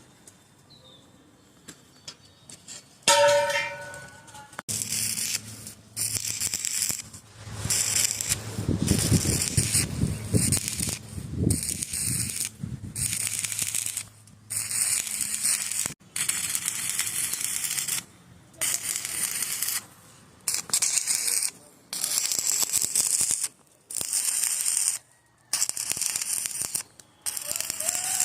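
Electric arc welding on steel, laid down in about a dozen short runs of crackling hiss, each one to two seconds long with brief pauses between. A short pitched tone sounds about three seconds in, before the first run.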